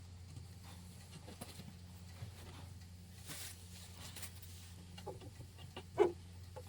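Steady low electrical hum with faint scattered clicks and knocks of handling, and a brief squeak about six seconds in.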